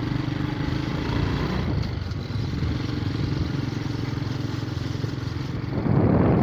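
Motorcycle engine running steadily while riding. A louder rush of noise comes in near the end.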